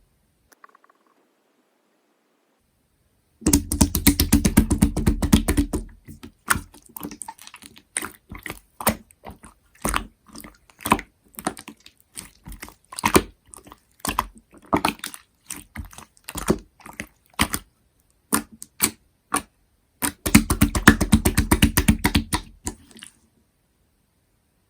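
Hands squishing and pressing a clear slime with a slushy, shaved-ice texture, starting about three seconds in. Two dense runs of crackling clicks a few seconds long come near the start and near the end, with scattered single pops and clicks between them.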